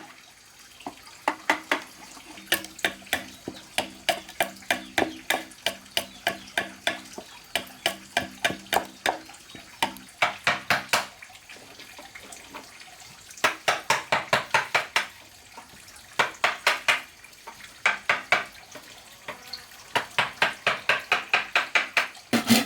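Runs of quick, sharp strikes, about five or six a second, broken by short pauses: a hand tool chopping or tapping at bamboo.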